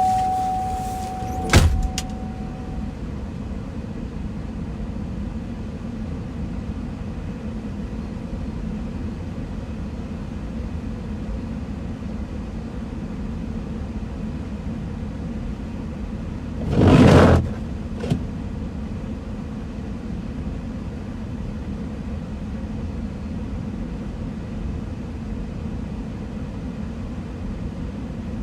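Car engine idling unattended, heard from inside the cabin. A car door shuts with a thump about a second and a half in, as a steady tone fades out, and a short loud rush of noise comes over past the middle, followed by a small click.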